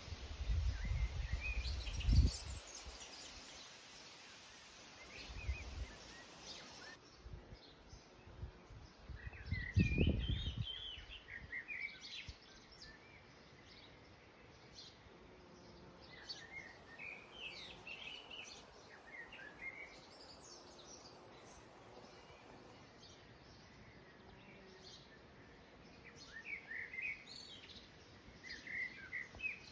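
Garden birds chirping and singing in short, scattered phrases. Low rumbles come near the start and again about ten seconds in.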